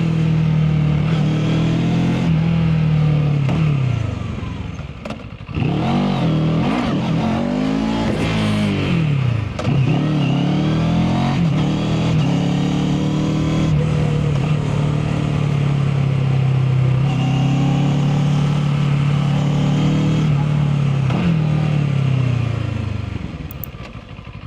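Mash FR 750 motorcycle engine under way, running at a steady pitch most of the time. About four seconds in it eases off, then the pitch falls and rises several times before settling into a steady cruise; it eases off again near the end.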